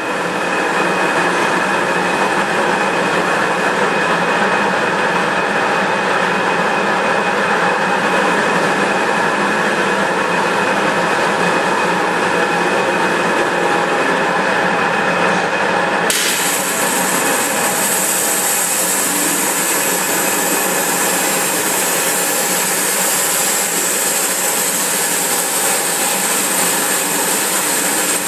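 Flow waterjet cutting machine running: a loud, steady machine hiss with a few held tones. Just past halfway a brighter, higher hiss sets in suddenly and stays.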